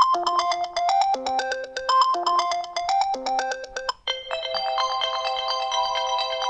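New iOS 7 ringtones being previewed one after another. The first is a short melodic phrase of quick notes that plays twice. About four seconds in it stops, and the next ringtone begins with a fuller, sustained chime-like pattern.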